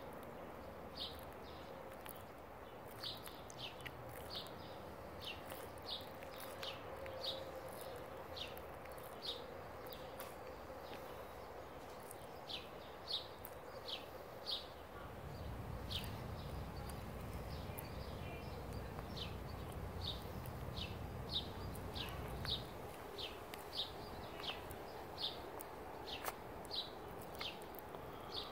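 A bird chirping over and over outdoors: short, high chirps about one or two a second, a little uneven in spacing. A low rumble comes up in the middle and dies away.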